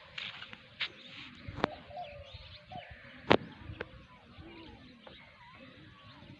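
Birds calling in the countryside, short curving calls over a light hiss, broken by two sharp clicks, one about a second and a half in and a louder one about three seconds in.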